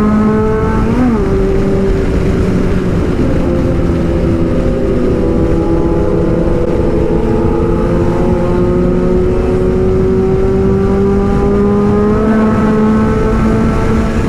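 Kawasaki Z900 inline-four engine under way, one steady engine note over a heavy rush of wind and road noise. About a second in, the pitch flicks up and drops as a gear changes, then it climbs slowly as the bike gathers speed.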